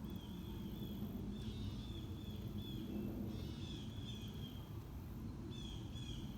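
Birds chirping in short repeated phrases over a steady low rumble of distant traffic.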